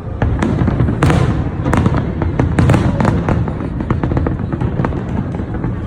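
Fireworks display going off in rapid succession: many sharp cracks and bangs, several a second, over a continuous low rumble of shell bursts.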